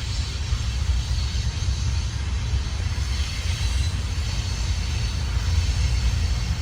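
Freight train rolling past with a steady low rumble and hiss of wheels on rail.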